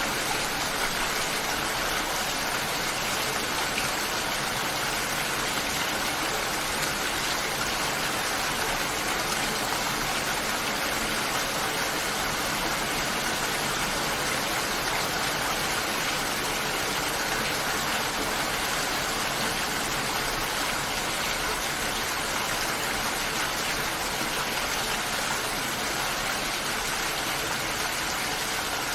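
Steady rain, an even, unbroken wash of water noise.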